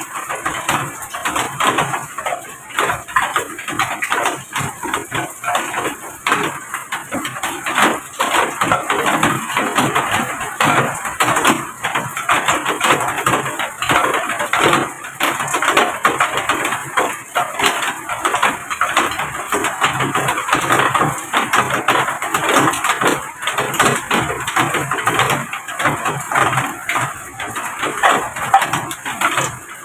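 Heavy rain falling on a hard surface: a dense, irregular clatter of drops that swells and eases.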